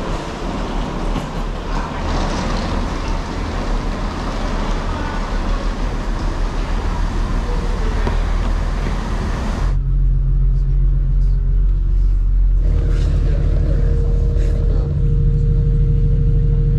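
Busy railway station noise with footsteps. After a sudden cut about ten seconds in, a train's engine hums steadily, heard from inside the carriage, with its note stepping to a new pitch twice.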